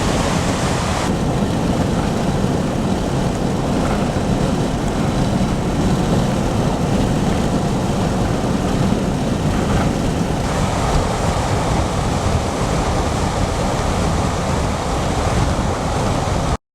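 Steady rushing noise with a strong low rumble and no distinct events; it cuts off suddenly near the end.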